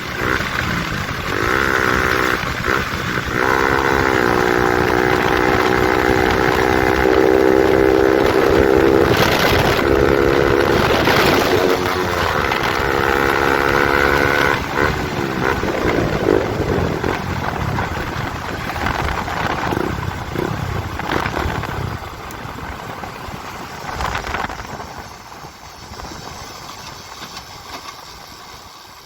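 KTM RC 200's single-cylinder engine through an aftermarket Akrapovic exhaust with the dB killer removed, very loud. It revs up in two steps, holds high revs, then drops back about halfway through, and the sound fades away over the last several seconds.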